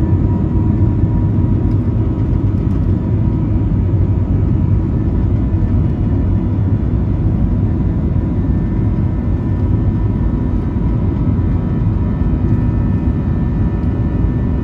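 Cabin noise inside a JetBlue Airbus A321 with its jet engines running at steady power: a loud, even low rumble with a few faint steady whining tones on top.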